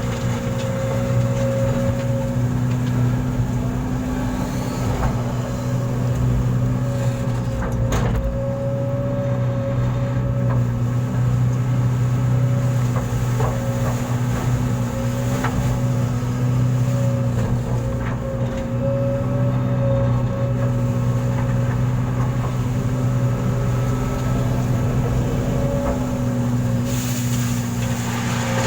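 A large engine running at a steady speed, with one sharp knock about eight seconds in.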